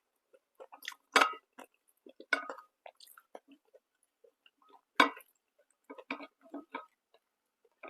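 A person chewing food close to the microphone: irregular wet mouth clicks and smacks, with three louder bites, about a second in, at about two and a half seconds and at about five seconds.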